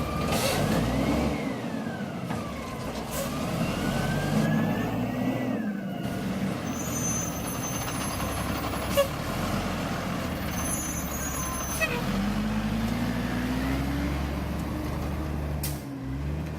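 Garbage truck engine running, revving up about three quarters of the way through, with two sharp clicks. During the first six seconds a siren wails up and down over it.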